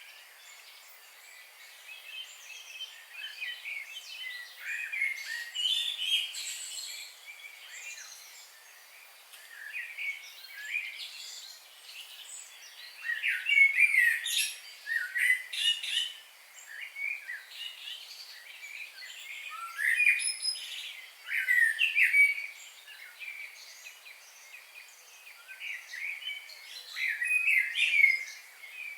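Wild birds singing: bursts of quick, high chirping phrases every few seconds, with quieter spells between.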